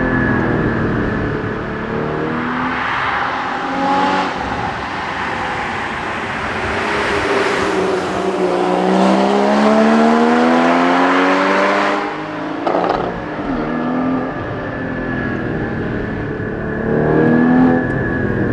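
Porsche 981 Cayman GT4's 3.8-litre flat-six engine, heard from inside the cabin, running through corners at varying throttle. About two-thirds of the way through it pulls hard with its pitch rising steadily for several seconds, then falls off sharply.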